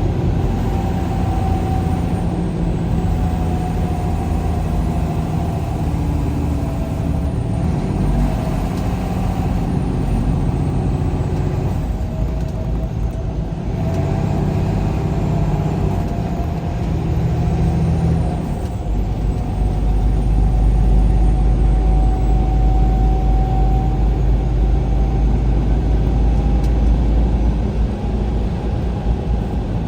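A vehicle driving along a road, its engine and road noise running steadily, the pitch drifting slowly with speed. A deeper rumble comes in about two-thirds of the way through.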